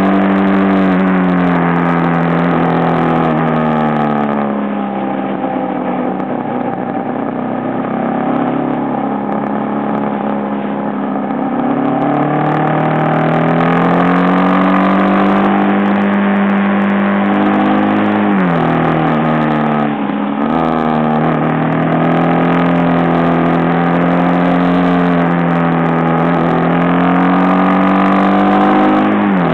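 Aprilia Pegaso motorcycle's single-cylinder engine under way on a climbing road, its note rising and falling with the throttle. The pitch sags early on, climbs steadily for several seconds, then dips sharply twice about two-thirds of the way through before settling to a steady pull.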